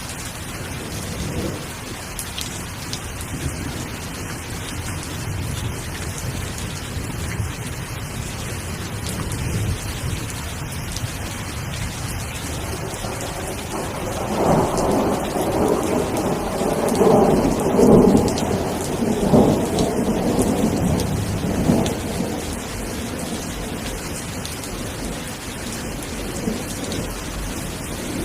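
Steady rain, with a long rolling rumble of thunder swelling up about halfway through and dying away several seconds later.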